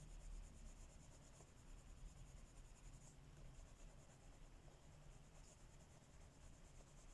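Faint, steady scratching of colouring strokes on paper, in quick repeated back-and-forth shading.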